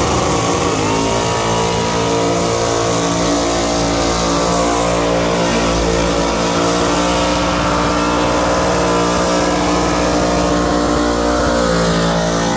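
A burnout car's engine revs up in the first second, then is held at a steady high pitch while its rear tyres spin on the pad and pour out smoke. The spinning tyres add a dense rushing hiss underneath the engine.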